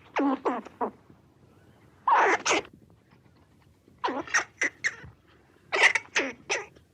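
An animal's short, sharp vocal sounds, coming in four clusters of two to four quick notes, each cluster about one and a half to two seconds after the last.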